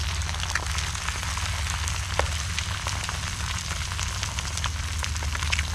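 Whitebait fritter of egg and whitebait sizzling and crackling in oil in a frying pan on a portable gas stove, with a steady low rumble underneath.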